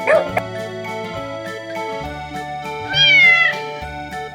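A domestic cat gives one drawn-out meow, falling in pitch, about three seconds in, over steady background music. A short dog bark is heard right at the start.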